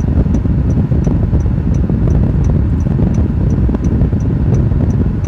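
Vehicle running on the road, a steady low rumble, with a light regular tick about three times a second from its turn indicator.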